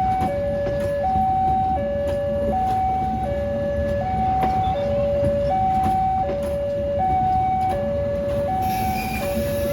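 Railway level-crossing warning alarm sounding a steady two-tone high-low pattern, about one full cycle every one and a half seconds, over a low rumble. A hiss comes in near the end.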